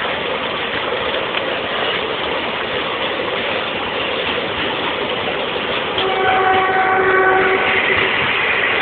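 Train passing by, a steady rolling rumble of wheels on rails, with a train horn sounding one blast of about a second and a half, starting about six seconds in.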